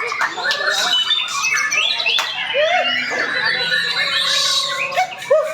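Several white-rumped shamas (murai batu) singing at once: a dense tangle of loud whistles, rising and falling glides and harsh chirps, overlapping without a break.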